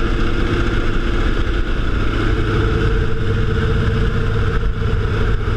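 Engine running steadily at an even speed, with a heavy low rumble under a constant hum.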